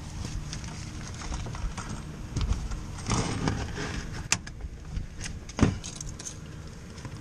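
Metal clinking and knocking from tools and sheet-metal parts being handled, with a sharp click about four seconds in and a heavier knock shortly after.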